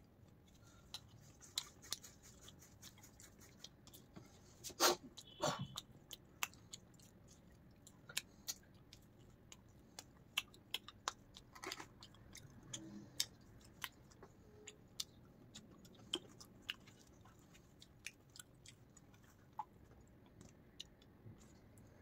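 A person chewing and biting pizza: scattered soft mouth clicks at an uneven pace, with a few louder ones about five seconds in.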